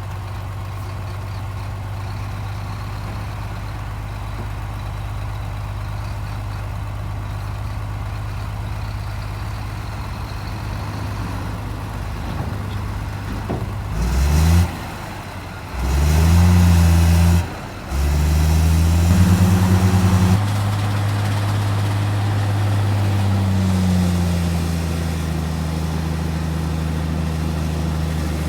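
Heavy diesel engine idling steadily, then revved hard three times, each rise in pitch about halfway through, before settling into a steady run at a higher speed.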